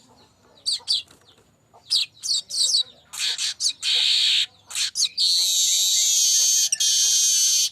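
Streaked weaver (manyar kembang) singing: a few short, high, falling chirps, then a buzzy stretch, then a long, harsh, wheezing buzz held for about two and a half seconds to the end.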